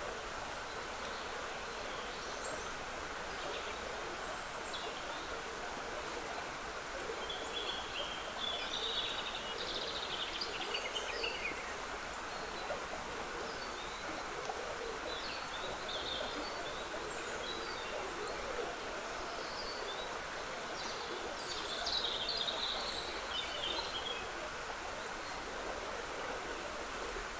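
Small woodland stream trickling steadily, with songbirds singing in scattered bursts, busiest about a third of the way in and again near the end.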